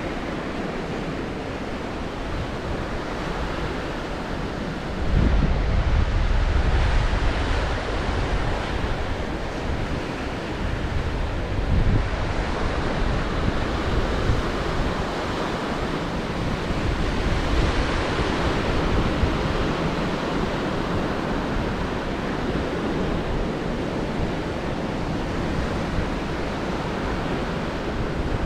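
Sea waves surging and breaking on the shore in a steady wash, with wind buffeting the microphone. About five seconds in, a loud low wind rumble starts suddenly and lasts a few seconds, and a shorter gust comes near the middle.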